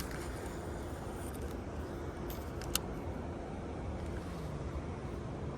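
A boat's motor running steadily at low speed, a low rumble with a faint hum that drops slightly in pitch near the end. A single short click about two and a half seconds in.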